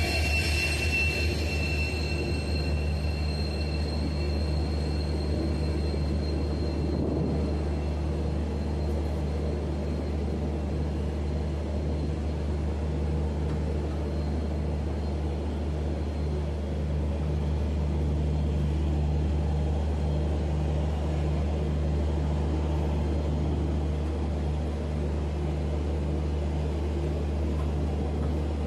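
Passenger train coaches rolling along a platform as the train slows to a stop, with thin high-pitched wheel and brake squeal in the first few seconds that fades away, over a steady low drone from the WDP4D diesel locomotive ahead.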